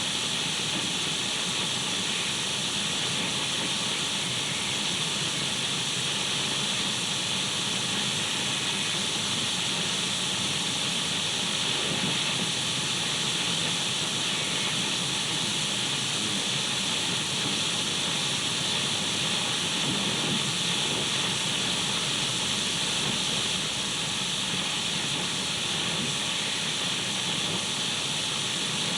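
Radio static: a steady hiss of detuned radio noise, loudest in the upper middle of the range, with a few faint steady tones running through it.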